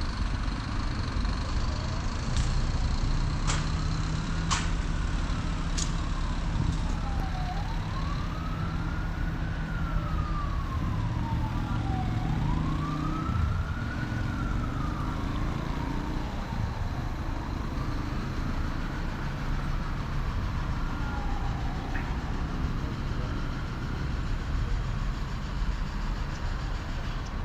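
An emergency vehicle's siren wailing, slowly rising and falling, about four full cycles that fade out near the end, faint over a steady rumble of traffic.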